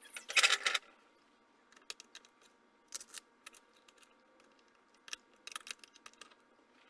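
A brief scraping rasp about half a second in, then scattered light clicks and taps of small metal workpieces and tools being handled at the bench.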